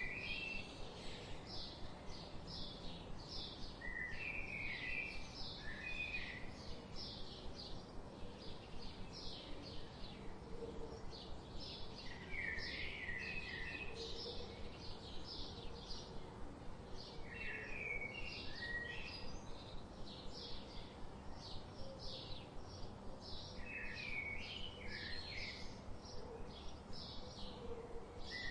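Songbirds chirping: a rapid series of short, high chirps repeats about three times a second throughout. A lower warbling phrase joins every several seconds.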